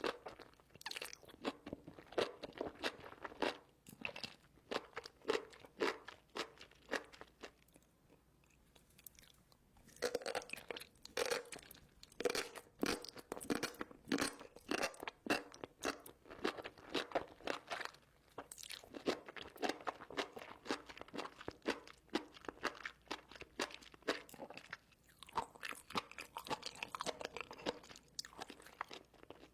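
A person chewing and biting enoki mushrooms, with dense, irregular crunching and squeaky crackles. The chewing pauses briefly about a third of the way in and again around two-thirds of the way through.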